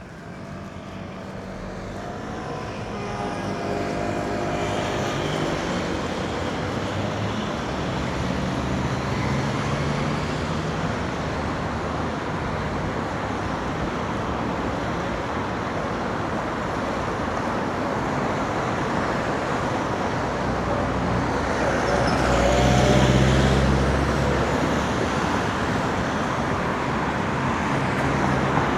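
Road traffic: cars going by in a steady stream, growing louder over the first few seconds. A vehicle passes close, loudest about 23 seconds in.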